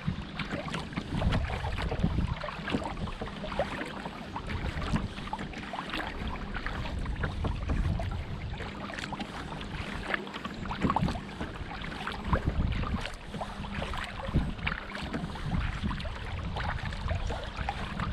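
Water splashing and trickling around a kayak as it is paddled, with many small drips and splashes and wind buffeting the microphone.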